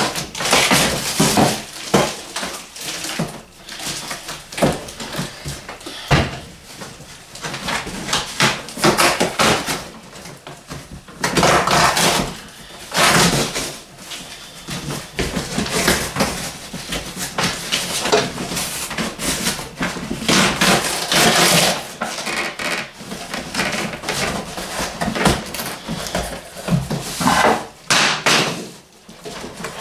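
A cardboard box being opened and unpacked by hand: tearing, crinkling and rustling of the packaging, with scattered knocks and bumps.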